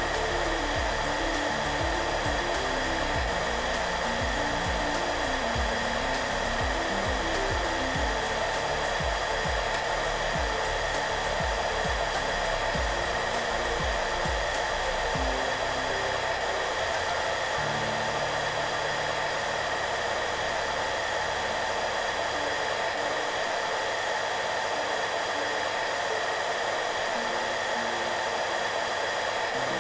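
Hair dryer running steadily, a constant airy rush with a few fixed hum bands, with soft background music of low notes underneath.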